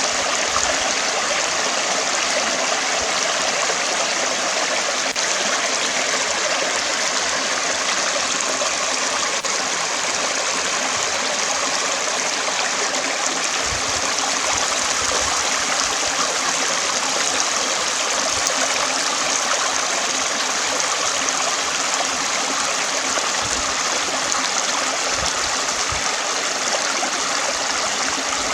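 Stream of running water, flowing and splashing steadily at an even level.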